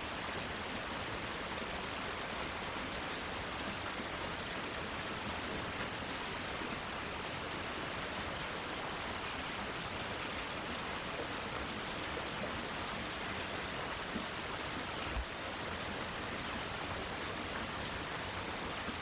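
Steady rain falling, an even hiss without let-up, with one brief low thump about fifteen seconds in.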